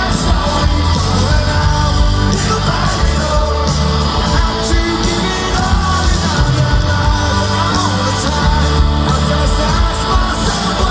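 Live rock band playing loudly: electric guitars, bass and drums, with singing over them.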